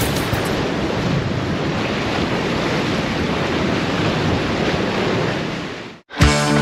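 Steady rushing noise of wind and waves, fading out about six seconds in; music with a beat starts just after.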